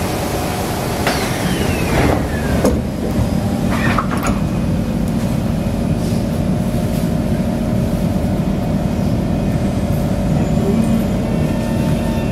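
Kawasaki C151 electric train's sliding doors closing, with knocks about two seconds in. Near the end the train starts pulling away, its traction motor whine rising in pitch, heard from inside the carriage.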